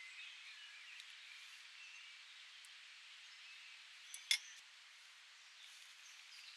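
Faint birds chirping over quiet outdoor ambience, with a single sharp clink about four seconds in.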